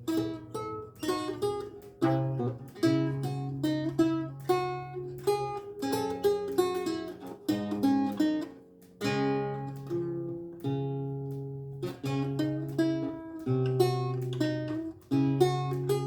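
Renaissance lute with gut strings played solo: plucked melody notes and chords over sustained bass notes, with a brief pause about halfway.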